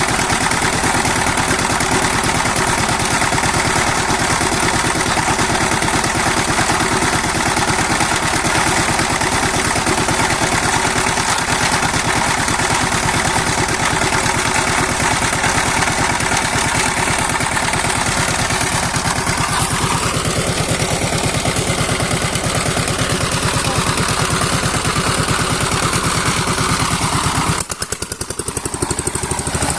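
Sifang power tiller's single-cylinder diesel engine running steadily with a fast, even chugging beat. About 28 seconds in the sound drops in level and changes character.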